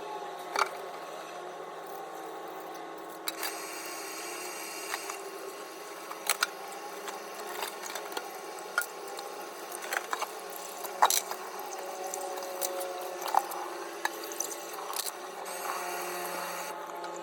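Steady room hum with several sharp clicks and clinks scattered through it, and two short bursts of hiss.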